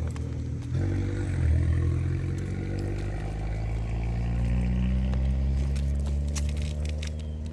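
A car driving past, its engine hum slowly rising in pitch and fading near the end.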